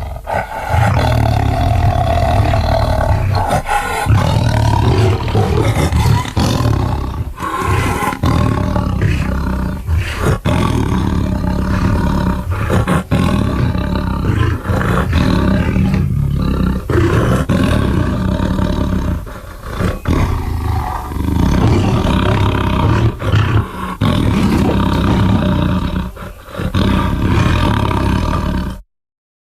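Designed dinosaur sound effects for an Acrocanthosaurus: a long run of deep, rough roars, each following close on the last, with a couple of brief dips. The roaring cuts off just before the end.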